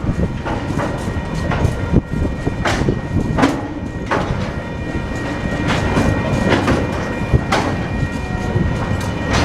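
TasRail freight train rolling past, its wheels clacking over rail joints at uneven intervals over a steady rumble, with a faint high ringing from the wheels and rails.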